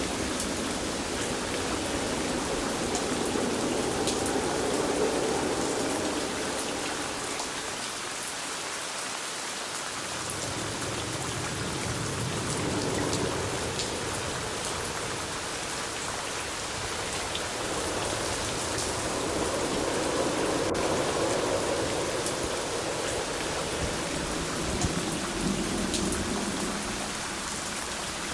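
Steady rain falling on surfaces, a dense hiss of drops with fine patter, over a low rumble that swells and fades every several seconds.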